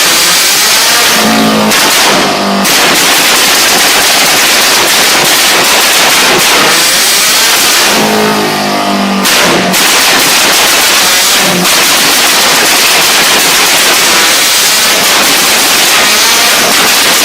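Turbocharged Subaru flat-four engine revving in short blips several times, with loud crackling exhaust pops between the blips.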